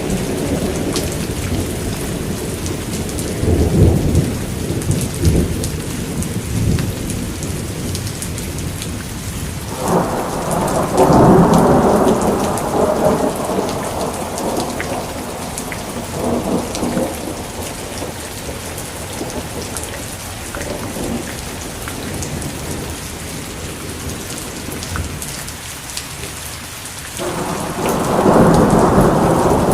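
Steady heavy rain, with a constant hiss of many drops. Thunder rumbles low over it, with a roll about four seconds in, a longer, louder one around ten seconds in, and another building near the end.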